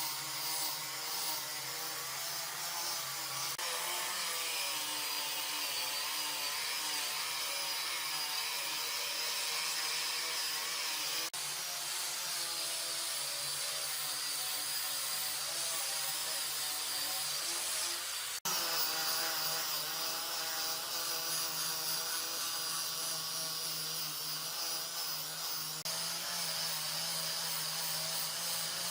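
Power tool running steadily while working wood, with abrupt changes in its sound a few times.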